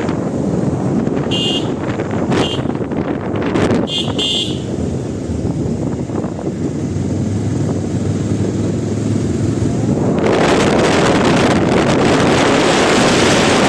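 A road vehicle running, with several short, high horn toots in the first few seconds. From about ten seconds in, a loud rush of wind noise on the microphone swells up and covers it.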